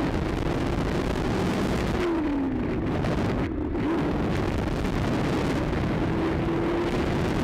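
Car engine and road noise heard from inside a moving car, over a steady rushing haze. The engine note drops about two seconds in, then rises again through the second half as the car picks up speed.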